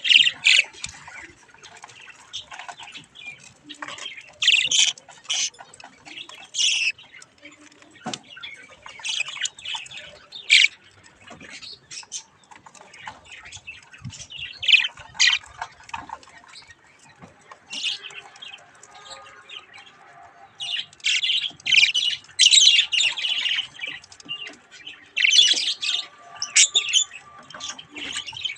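Budgerigars chirping and squawking in short, sharp calls, scattered at first and then crowding into busier chatter near the end.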